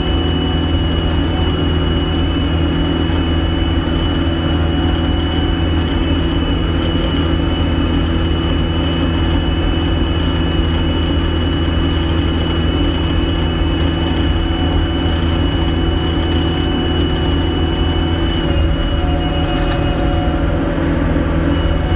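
Gehl skid steer's diesel engine running steadily under throttle, with a steady high-pitched whine over the low engine drone.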